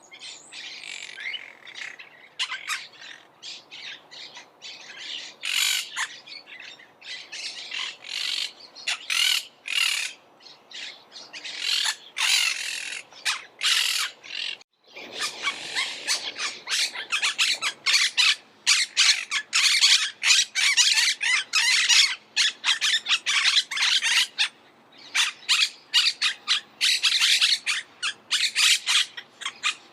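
Monk parakeets squawking, a rapid run of short, harsh, overlapping calls. The calls stop for a moment about halfway through, then come back faster and denser.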